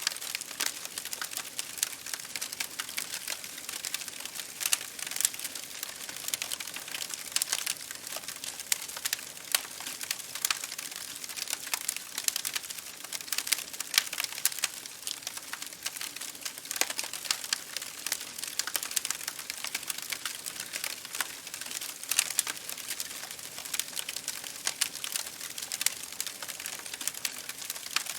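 Wood fire crackling in a fireplace, a dense run of irregular sharp pops and snaps, over a steady patter of rain on a window.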